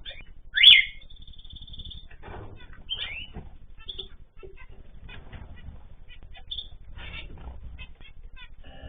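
Small cage birds in an aviary chirping and calling, with many short chirps and trills. The loudest sound is one rising call about a second in.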